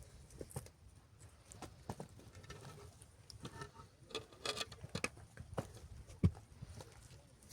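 Scattered light taps and clicks at an uneven pace, with one sharper knock about six seconds in.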